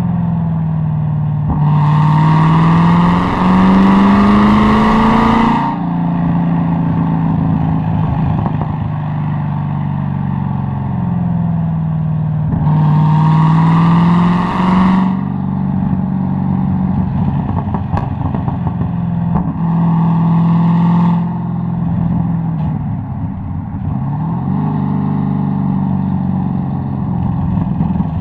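Corvette C6 Z06's 7.0-litre LS7 V8 pulling hard three times, its note climbing through each pull. Between the pulls the exhaust pops and crackles on the overrun.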